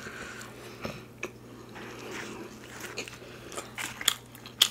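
Close-miked chewing: soft wet mouth sounds with scattered small clicks and crunches, the sharpest one near the end.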